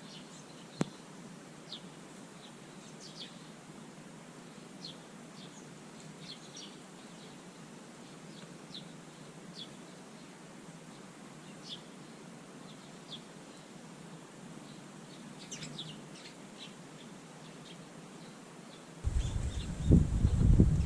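Garden birds calling in short, sharp chirps, scattered one at a time, over a faint steady hiss. A single click sounds about a second in, and a loud low rumbling starts near the end.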